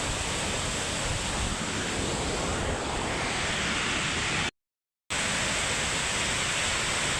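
Steady rushing roar of Victoria Falls' falling water, even and unbroken. The sound cuts out completely for about half a second a little past the middle, then returns.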